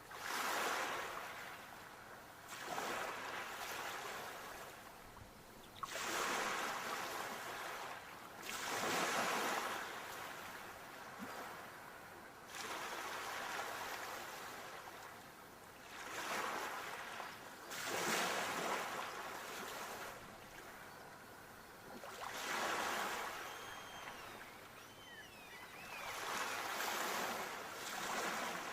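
Sea waves breaking and washing up the shore, one surge every two to four seconds. A few faint, high chirping glides come about two-thirds of the way through.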